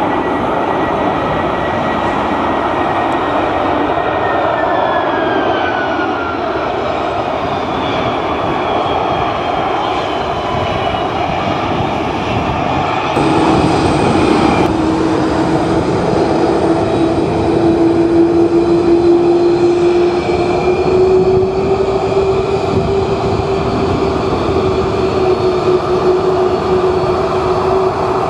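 Airbus A330 jet engines running loud and steady as the airliner lands, their whine falling in pitch as it passes. About halfway through, the sound turns suddenly louder, with a steady hum that rises slightly in pitch.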